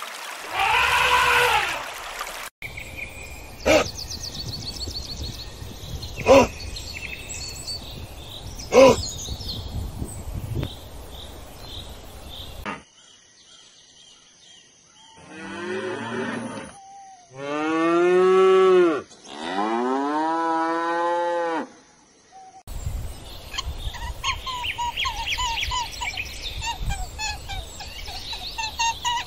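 A string of animal calls from separate clips. In the middle come three long, drawn-out calls, each rising and then falling in pitch, and these are the loudest sounds. Earlier there are a few sharp clicks, and near the end a fast run of short repeated calls.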